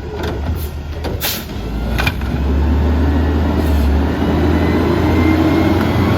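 Autocar ACX garbage truck's diesel engine running, getting louder about two seconds in with a faint rising whine as the truck works or pulls away; a couple of sharp clicks come just before.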